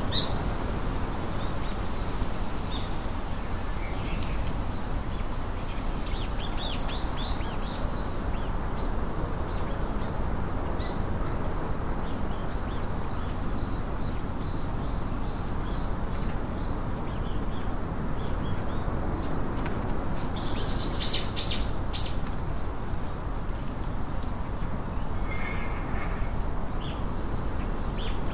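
Small birds chirping in repeated short, high calls over steady outdoor background noise, with a brief cluster of sharp clicks about three-quarters of the way through.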